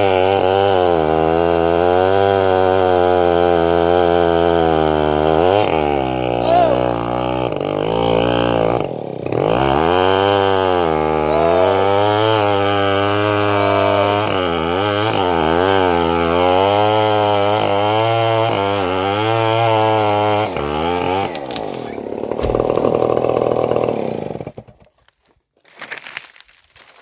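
Homemade bandsaw running and cutting trembesi (rain tree) wood, its engine note rising and falling as the blade takes and sheds load. It dips briefly once, and near the end the machine note stops and the sound dies away.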